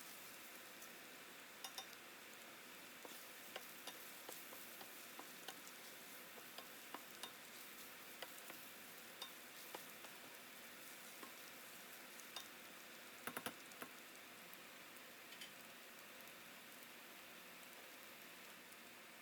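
Faint sizzling of food frying in a pan, with scattered sharp clicks and taps, a quick run of them about two-thirds of the way through.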